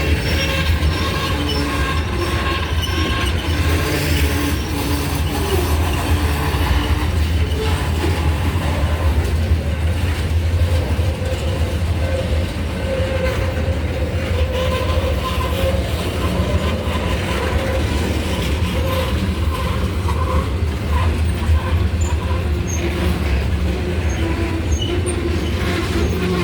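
Freight train rolling past with a steady heavy rumble from the cars on the rails, and thin, wavering squeals from the wheels coming and going throughout.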